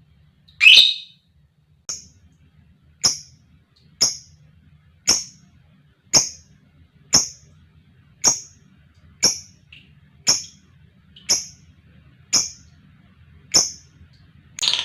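Lovebird calling in short, sharp single chirps about once a second, after a longer, louder first call. Right at the end a dense, continuous sound cuts in.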